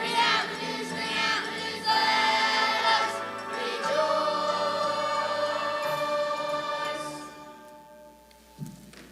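A choir singing with musical accompaniment, the music dying away about seven seconds in.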